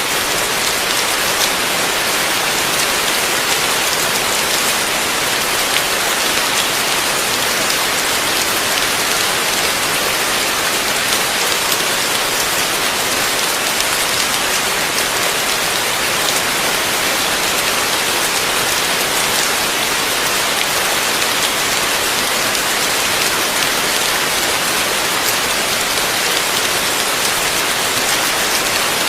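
Heavy rain falling steadily: an even, dense hiss of rain on surfaces, speckled with the ticks of individual drops.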